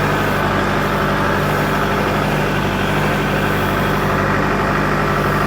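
Kubota L47 TLB's diesel engine idling steadily at a low, even speed while it warms up from cold.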